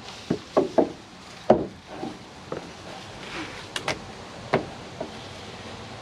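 Irregular knocks and snaps of wood and brush, about a dozen, the loudest about a second and a half in and two sharp clicks close together near four seconds in: cut hawthorn branches being handled between cuts.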